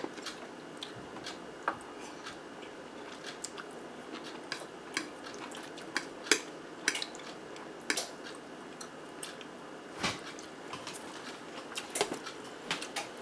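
Close-up eating sounds of a person chewing a cheesy ground-turkey zucchini boat: irregular wet smacks and sharp clicks scattered through, some of them perhaps a utensil on the plate.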